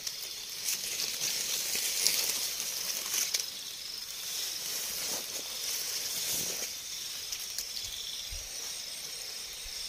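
Light rain falling, a steady high hiss with a few faint ticks.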